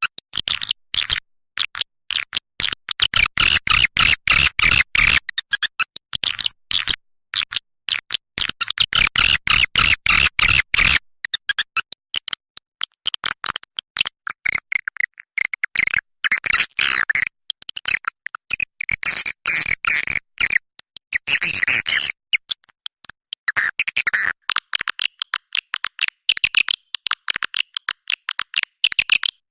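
Edible-nest swiftlets twittering: a dense stream of rapid, high chirps and clicks, broken by short gaps. It is a recorded call track of the kind played to draw swiftlets to a nesting house.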